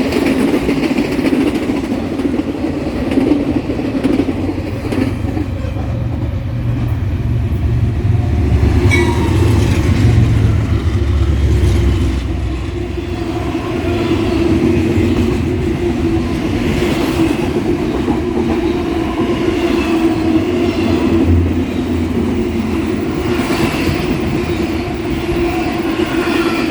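A train passing close by at speed: a heavy, steady rumble with wheels clattering over the rails, the rumble strongest about a third of the way through.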